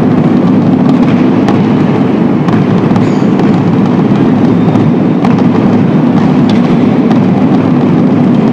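Marching band bass drums playing loudly and continuously. The recording is overloaded into a dense, distorted rumble with scattered sharp clicks.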